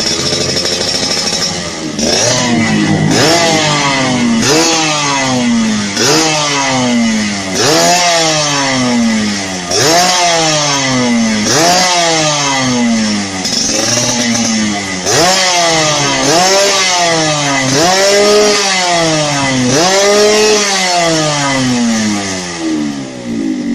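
Yamaha RX-King's single-cylinder two-stroke engine run through an aftermarket exhaust, idling briefly, then blipped again and again. Each rev rises quickly and drops back, about every second and a half.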